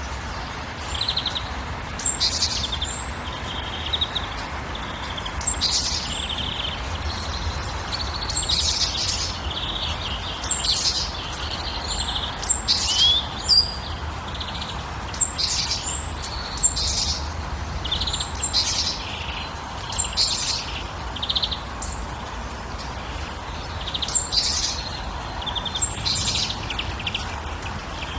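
Songbirds chirping and calling in quick, short repeated phrases, several calls every couple of seconds, over a steady low background hiss.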